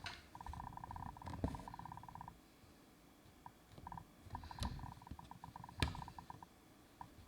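Embroidery thread being pulled through fabric by hand: a rapid stuttering rasp in several runs with short pauses between them, plus two sharp clicks.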